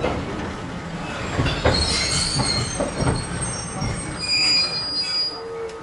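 Chichibu 5000-series electric railcar heard from inside, rolling along with rumble and a few wheel thumps, while high-pitched wheel squeal sets in about two seconds in and fades out about a second before the end.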